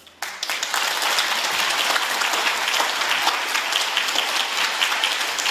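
Audience applauding, starting suddenly just after the start and going on steadily, right after the orchestra's final chord dies away.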